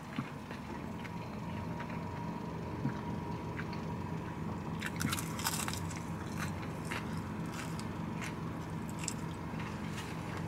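A person chewing a crispy fried chicken wing, with a cluster of loud crunches about five seconds in. A steady low hum sits under the chewing.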